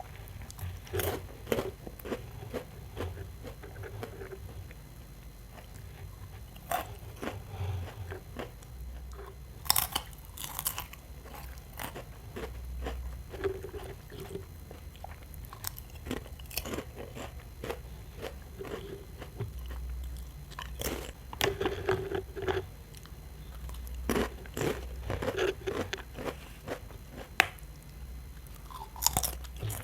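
Bites and chewing of a Cornetto ice cream cone: sharp, irregular crunches of the crisp wafer cone, with softer chewing between them.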